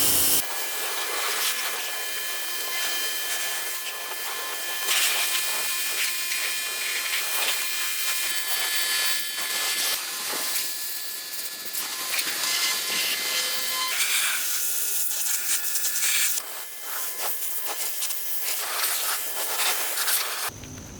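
Water spraying onto a car's bodywork, a steady hiss for a first rinse to wash off dust, in several stretches that change level abruptly.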